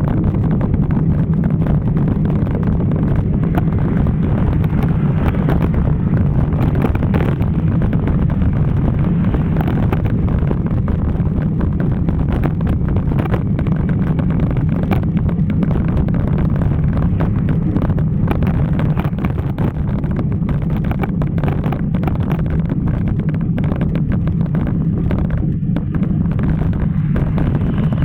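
Steady wind rushing over the microphone of a camera carried on a moving bicycle, loud and low, with no break.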